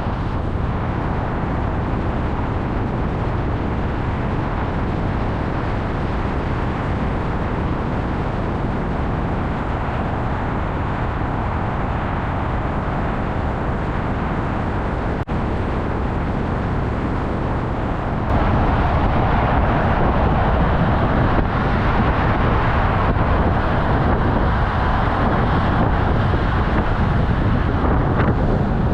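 A car driving: steady road and engine noise. The noise jumps louder about 18 seconds in.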